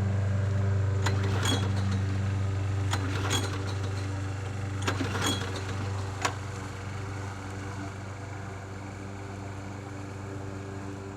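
Bolens push mower's recoil starter cord being yanked about three times, each pull a short double rasp about two seconds apart. The engine does not catch after priming, over a steady low hum.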